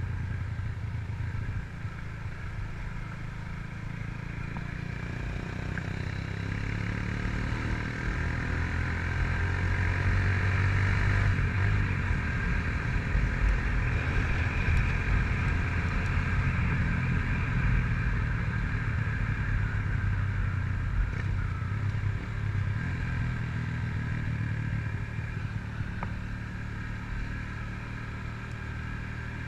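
Honda CG Titan 150's single-cylinder four-stroke engine, breathing through a Fortuna aftermarket exhaust, running while the bike is ridden. It climbs in pitch and gets louder from about six seconds in, holds there for a while, and eases off again over the last several seconds.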